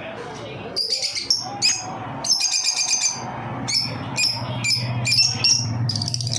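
Birds chirping in a rapid run of short, high notes that starts about a second in and goes on with brief pauses, over a low steady hum.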